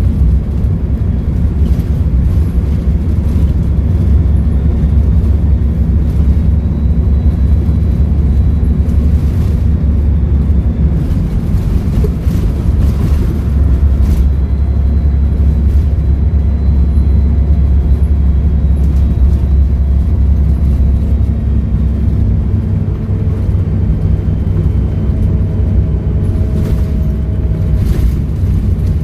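Volvo B7RLE bus's diesel engine running under way with a steady deep drone. A faint high turbo whistle rides over it.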